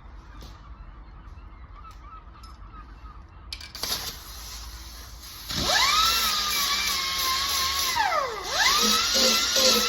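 A power grinder starts about halfway through with a sharply rising whine, then holds at speed; its pitch dips steeply and recovers as it is pressed onto the welds of a steel car panel to grind them flush.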